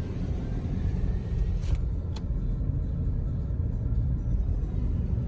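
Steady low rumble of a car driving, heard from inside the cabin, with a couple of faint clicks near the middle.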